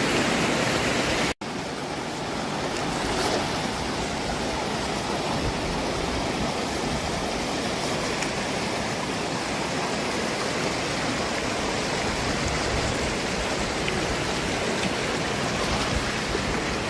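Fast-flowing river water rushing in a steady roar, broken by an abrupt cut about a second in.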